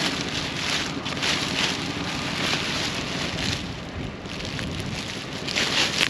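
Plastic trash bags being torn open and rummaged through: a run of irregular crinkling rustles, loudest near the end.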